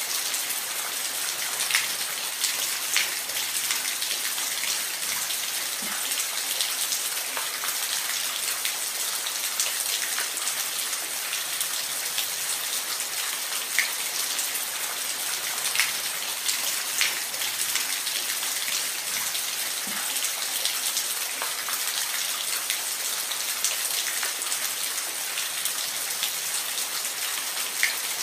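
Falling water in a steady, even hiss, dotted with short, sharp drop ticks every second or so.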